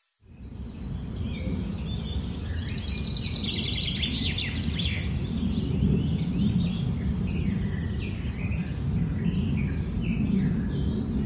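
Several small birds chirping and calling in short repeated phrases over a steady low rumble; the sound fades in at the start.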